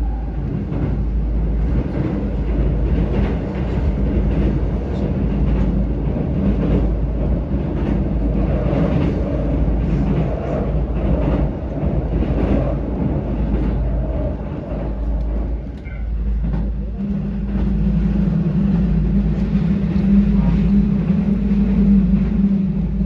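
Keihan electric train running, a steady rumble with irregular clicks and a low hum that grows louder about seventeen seconds in.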